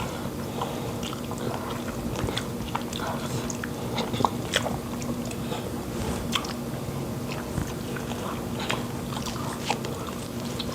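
Close-miked eating sounds: chewing and lip smacks on soft fufu and pepper soup, many small wet clicks of the mouth scattered throughout. A low steady hum runs underneath.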